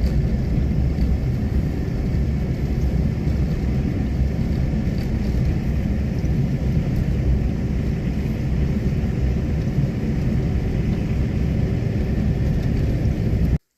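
A vehicle driving, a steady low rumble of road and engine noise with no distinct engine note. It cuts off abruptly near the end.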